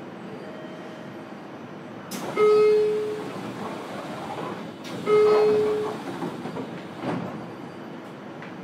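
Inside a JR Kyushu 303 series electric train at a station departure: over the car's steady hum come two loud pitched blasts about three seconds apart. Each opens with a sharp click and holds one tone for under a second before fading, and a softer thud follows near the end.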